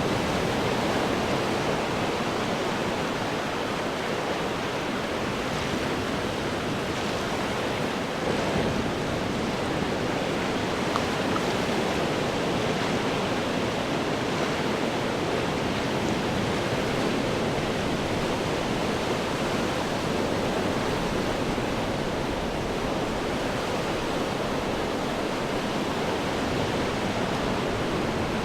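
Ocean waves breaking and churning against rocks, a continuous rushing wash with gentle swells in loudness.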